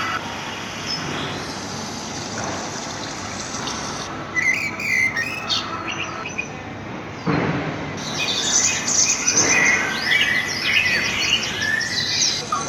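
Birds chirping in short, quick calls in two spells, over a steady background hiss.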